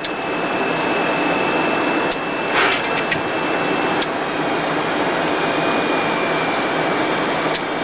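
Steady flight-deck noise of a Boeing 737-200 in descent: rushing airflow and engine sound with a thin high whine running through it. A brief click about two and a half seconds in.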